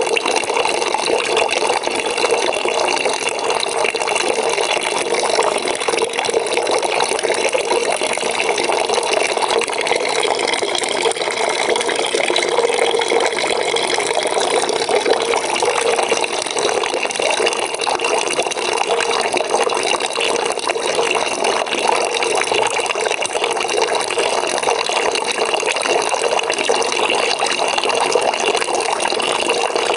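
Water pouring from a tap into a bucket, a steady splashing fill without a break.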